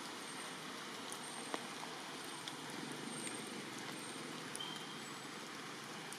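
Steady rain falling, an even hiss with scattered sharp drips.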